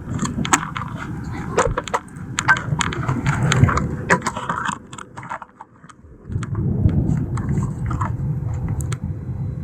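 Wind buffeting the microphone with a low rumble, overlaid by scattered clicks and knocks from a camera tripod being handled and set up. The wind noise drops out for about a second around five seconds in, then comes back.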